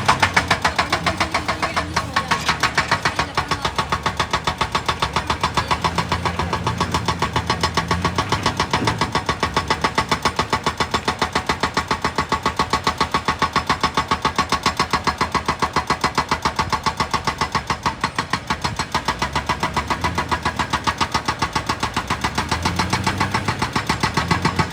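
Excavator-mounted hydraulic rock breaker hammering rock in a fast, steady run of blows, about four or five a second, over the machine's running engine.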